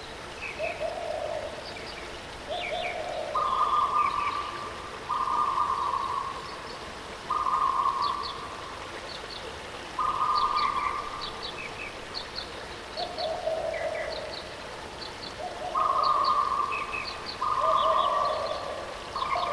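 A bird calling with a dozen or so low, even notes about a second long each, alternating between a lower and a higher pitch, while small birds give short high chirps, over the steady rush of a waterfall.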